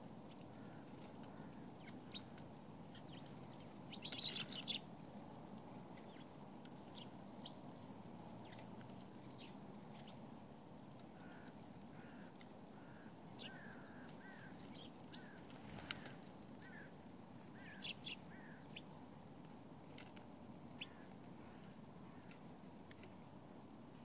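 Faint, scattered short chirps from a flock of small songbirds feeding on the ground, with a louder flurry of chirps about four seconds in and again near eighteen seconds, over a steady low background rumble.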